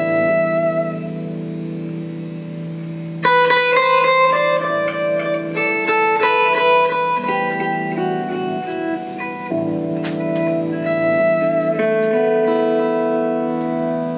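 Electric guitar played solo through effects: sustained layered chords, with a run of quickly plucked notes about three seconds in.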